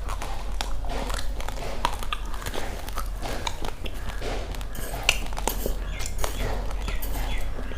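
Close-miked chewing of dry raw rice: irregular crunches and cracks of hard grains breaking between the teeth, over a steady low hum.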